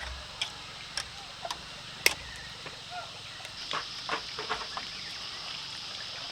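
Sharp knocks and clicks of bamboo being handled and fitted by hand: a few single cracks, the loudest about two seconds in, then a quick run of smaller clicks around four seconds in. A steady high hiss comes in about halfway through.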